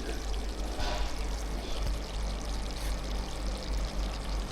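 A steady rushing noise with background music.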